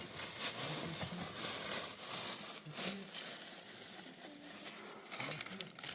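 Continuous rustling and crinkling with scattered small clicks, like a sheet of material being handled, with faint voices under it.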